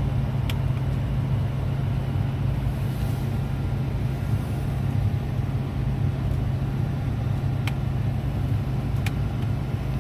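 Oldsmobile Cutlass convertible's engine idling steadily, with a few faint sharp clicks.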